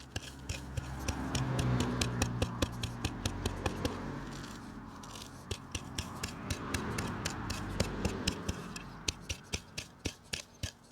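Folding tactical shovel scraping and digging into soil and dry grass to clear a small fire pit, in two long bouts of scraping, with a run of sharp clicks throughout.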